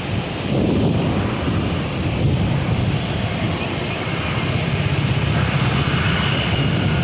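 Water discharging through the Prakasam barrage gates on the Krishna River, a loud, steady low rush that swells slightly about half a second in, with wind on the microphone.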